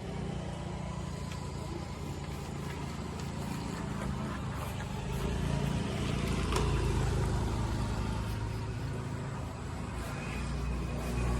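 Heavy diesel engine of the backhoe or truck running steadily, growing louder and heavier about five seconds in and again near the end as it is worked harder.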